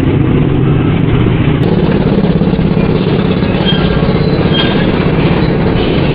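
Engines of well-of-death stunt vehicles, motorcycles and cars, running in a loud, steady low rumble without clear revving.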